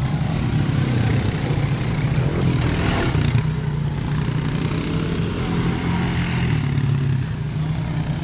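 Motorcycle engines running steadily, a continuous low drone with a brief swell of higher noise about three seconds in.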